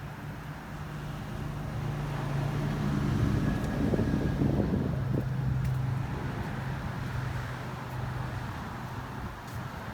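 A motor vehicle's engine hum that grows louder to a peak about four to five seconds in, its pitch dropping slightly as it eases off.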